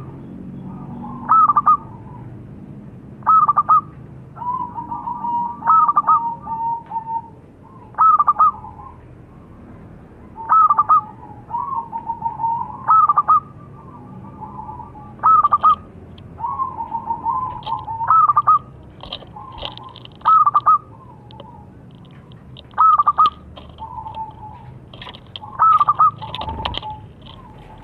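Zebra dove (perkutut) singing: short cooing phrases repeated about every two seconds, several running on into a longer rolling, trilled coo. From about two-thirds of the way in, fainter higher chirps from other birds join.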